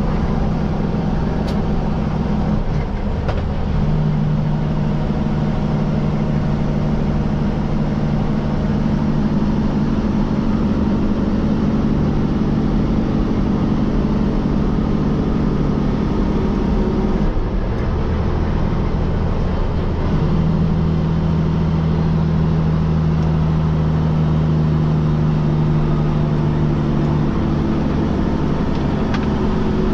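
Heavy truck's diesel engine running steadily at low revs in slow traffic, a constant hum whose pitch shifts around two-thirds of the way through.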